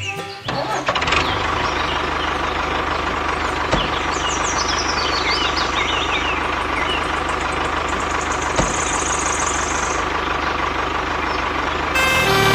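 An engine idling steadily with an even low throb, starting about half a second in.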